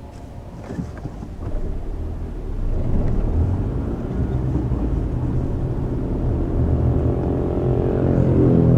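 Car engine and tyre noise heard from inside the cabin, growing louder over the first few seconds as the car picks up speed, with a few light clicks about a second in. Near the end the engine note climbs.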